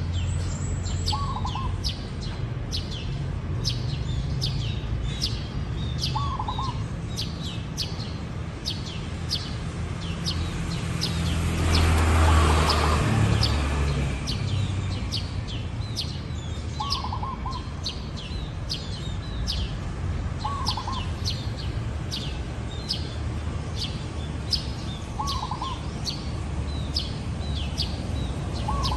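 Zebra doves calling outdoors: a short, lower cooing note every few seconds among a steady run of sharp high chirps from small birds. A swell of rushing noise rises and fades near the middle.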